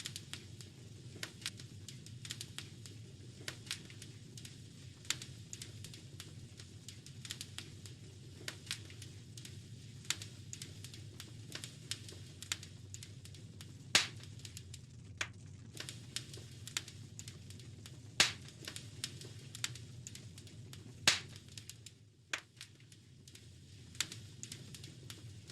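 Wood fire in a fireplace crackling, with irregular sharp pops and snaps over a steady low rumble of the flames. A few pops stand out louder, about halfway through and twice more toward the end.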